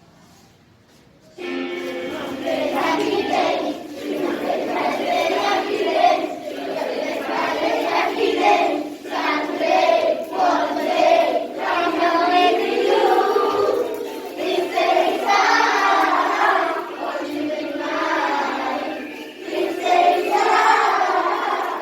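A group of children singing a song together in chorus, starting about a second and a half in after a faint lead-in.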